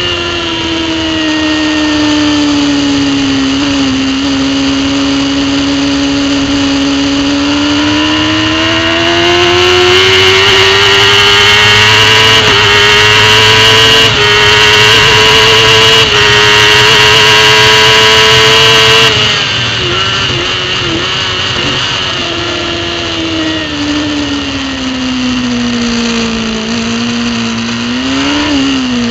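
Racing superbike engine heard from an onboard camera, with strong wind rush. The engine note drops, then climbs and holds high at full throttle with two quick steps in pitch like upshifts. Two-thirds of the way in it shuts off abruptly with a choppy, burbling stretch as it slows, then pulls again, sliding down and ending with a short throttle blip.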